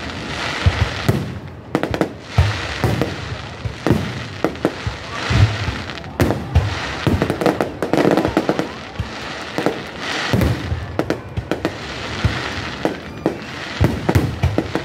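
Aerial firework shells bursting overhead in a display: a long run of sharp bangs, several close together at times, over a continuous rushing haze.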